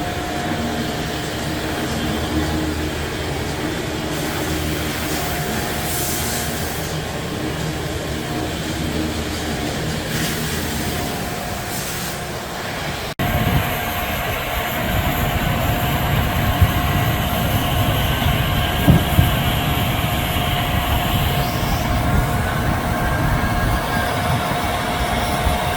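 Machinery running steadily with a constant high whine. About halfway through it cuts abruptly to a louder, deeper rumble, and the same whine carries on over it.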